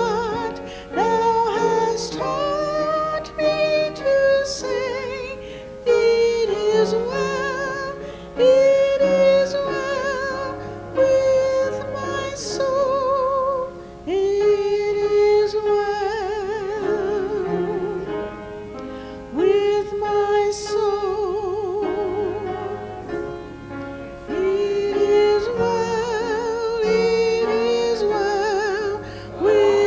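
Music: a woman singing a slow melody, with strong vibrato on long held notes, over a soft low accompaniment.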